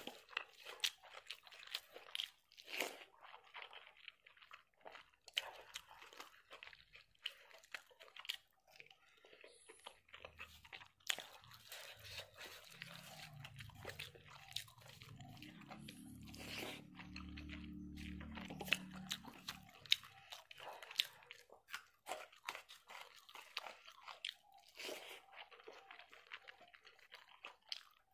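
Close-up crunching and chewing of mouthfuls of puffed rice, eaten by hand, with many sharp crunches throughout. A low hum joins in for several seconds midway.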